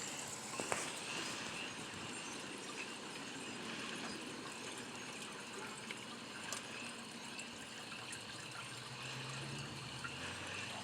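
Steady outdoor wind noise, an even rushing with a few faint ticks, as the wind picks up ahead of a storm.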